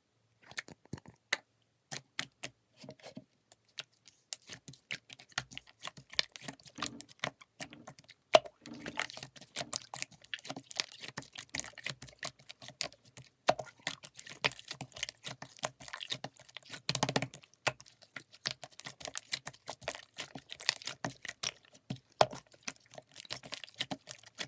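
Rapid, irregular clicking and tapping, a dense run of short sharp strokes like typing.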